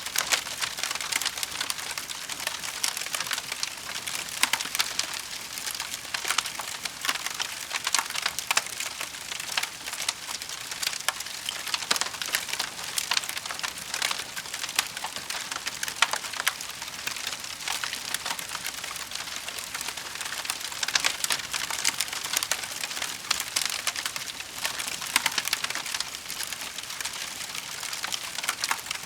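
Wood fire crackling steadily: a dense run of small snaps and pops, with a louder crack now and then.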